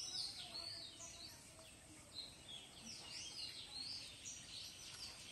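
Birds chirping in the background: a continuous series of short, high, sweeping notes, fairly faint.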